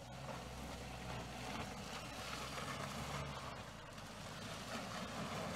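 Renault Kadjar crossover's engine running steadily under load as it climbs a muddy off-road slope, with a steady rushing noise over the engine hum.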